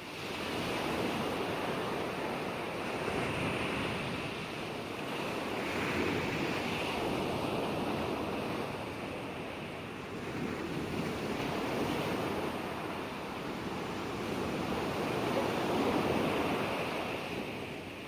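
Ocean waves breaking and washing on a shore, a continuous surf noise that swells and subsides every few seconds.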